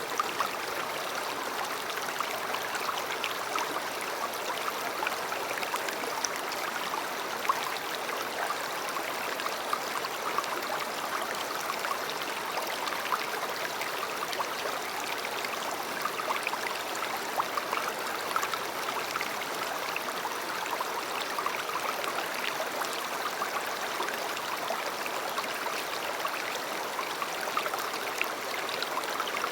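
A river running steadily over rocks, a continuous rushing with fine bubbling and splashing.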